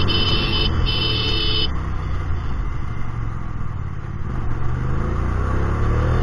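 Hyosung GT250R's 250 cc V-twin running through an aftermarket Solfer exhaust with a deep, steady rumble, easing off a little midway and picking up again. Two short high-pitched beeps sound near the start.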